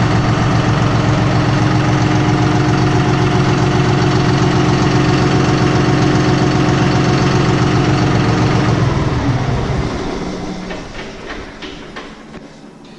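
John Deere 5055E tractor's three-cylinder turbo diesel idling steadily at operating temperature, then shut off about nine seconds in, its note sinking and dying away over a second or so. A few light clicks follow near the end.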